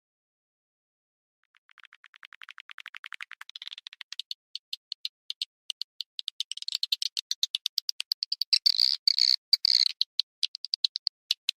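Swiftlet calls from a swiftlet-farm lure recording: fast trains of short clicking chirps. They start faint about a second and a half in and build into a dense, louder twittering from about six seconds on.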